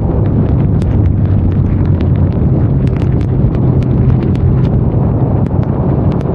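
Benelli Leoncino 500 Trail's parallel-twin engine running at a steady pace, with wind rushing over the microphone. Scattered sharp ticks of rain run through it.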